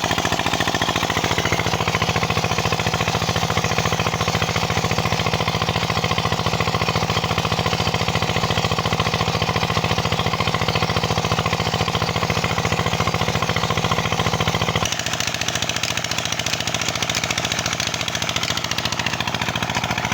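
Petter diesel engine running steadily while it drives a tubewell pump, with a fast, even knocking beat. About three-quarters of the way through, the deep low part of the sound drops away and it turns thinner and a little quieter.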